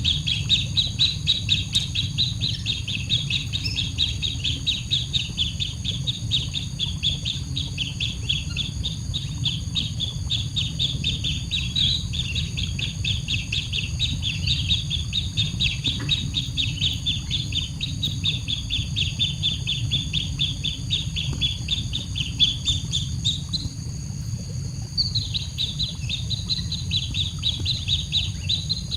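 Baby bird cheeping rapidly and without let-up, the insistent begging calls of a chick wanting food, with a short break of about a second and a half near the end.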